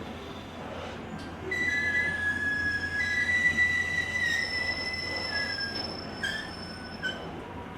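Wheels of a JR Kyushu 883 series express train squealing on curved track, heard from the car's deck vestibule. Several steady high squeal tones start about a second and a half in, switch pitch and come and go for about five seconds over the low rumble of the running train.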